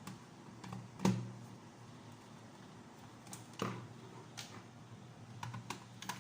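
Scattered clicks and knocks of a plastic toy mechanism and tools being handled during disassembly, the loudest about a second in and a quick cluster near the end, over a low steady hum.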